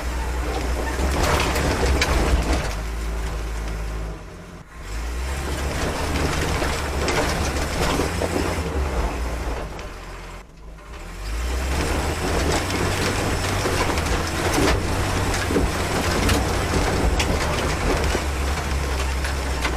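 Jeep CJ7 engine pulling hard up a rocky off-road climb, with repeated knocks and rattles from the body and tyres over rock. Twice the engine eases off briefly, about four and ten seconds in.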